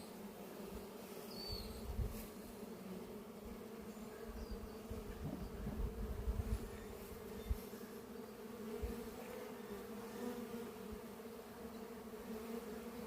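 A swarm of Italian honeybees buzzing, a steady hum throughout, with a few soft low bumps.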